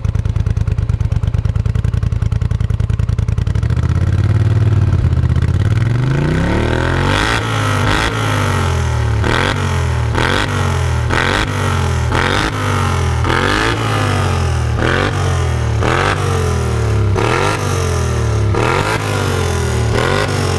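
Polaris Sportsman 850 XP ATV's twin-cylinder engine through a Supertrapp Mudslinger aftermarket exhaust, idling steadily at first, then blipped over and over, rising and falling about every second and a half.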